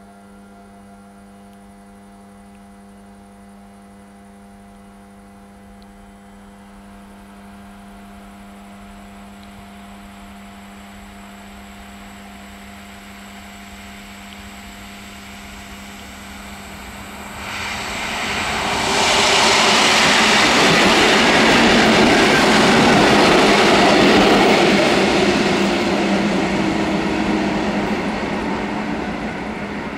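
Polish EN57AL electric multiple unit passing a level crossing: its rumble and wheel noise build slowly, surge about seventeen seconds in, stay loud for several seconds and then ease off. Underneath, the crossing's warning device sounds a steady electronic tone until the train noise covers it.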